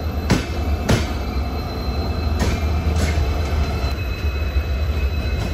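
Passenger train rolling past on the adjacent track: a steady low rumble, with its bogies' wheels clicking over a rail joint in pairs about every two seconds, and a thin, steady high whine from the wheels.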